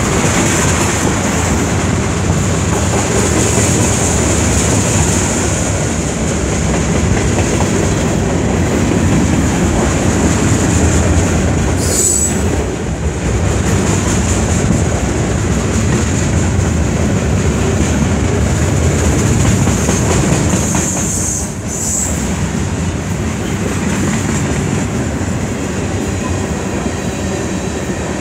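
CN freight train's cars rolling past: a steady rumble of steel wheels on rail with clickety-clack over the rail joints and a high, steady wheel squeal that swells and fades.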